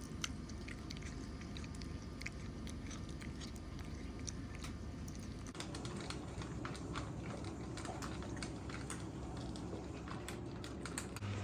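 A cat chewing, with soft, irregular crunching clicks.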